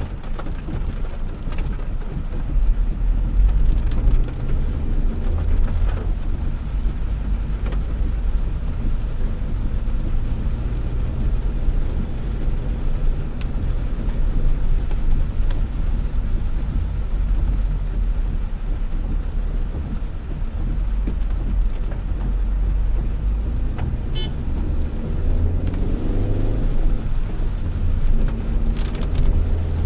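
A Honda Elevate driving on a wet road in heavy rain: steady low engine and tyre rumble mixed with the hiss of rain and spray. Around two-thirds of the way through, the engine note climbs as it pulls through a gear.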